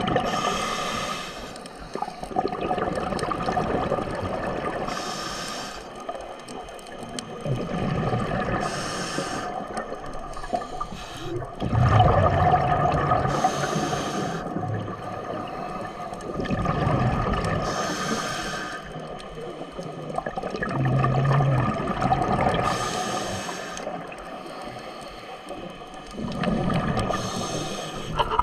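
A scuba diver breathing underwater through a regulator: bursts of exhaled bubbles hiss and gurgle about every four to five seconds over a steady underwater wash.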